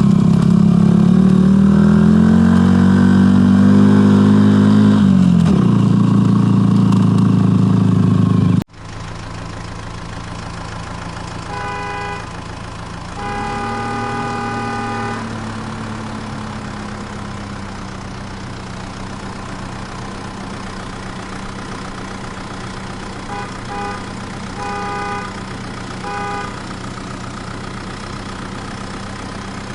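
A vehicle engine runs loudly, rising in pitch and then winding down, and cuts off abruptly about nine seconds in. A quieter steady engine drone follows, with a car horn honking: a short toot, then a long blast of about two seconds, then three short toots near the end.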